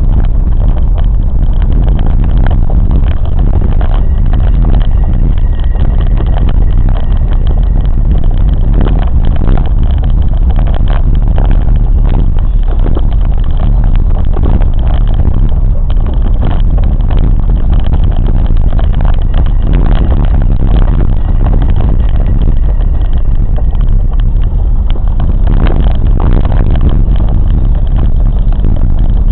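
A train running along the track: a steady, loud low rumble with frequent irregular knocks and rattles.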